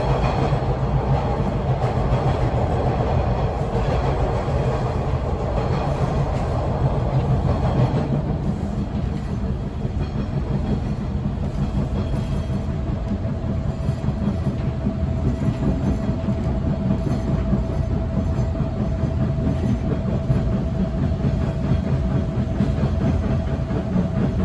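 A TTC T1 Bombardier subway car running between stations, heard from inside, with continuous rattling and knocking vibrations over a low rumble. About eight seconds in the higher part of the noise drops away, and from about twelve seconds a steady whine sits over the rumble.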